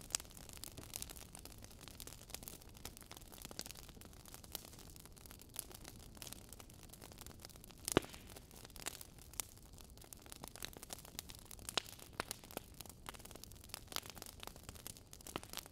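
Wood fire crackling in a fireplace: a low steady hiss with irregular small pops and snaps, one louder pop about eight seconds in.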